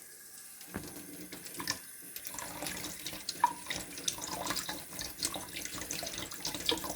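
Water running from a sink tap in a thin stream, splashing and dripping irregularly into the basin; it comes in under a second in and grows a little busier after about two seconds.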